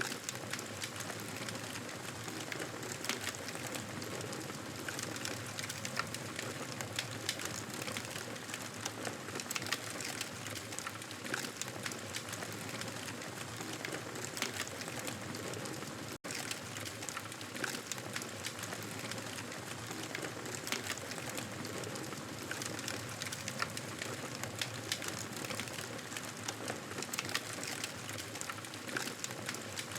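Wood fire in a fireplace crackling steadily, a dense run of small pops and snaps over a soft hiss, with a momentary dropout about halfway through.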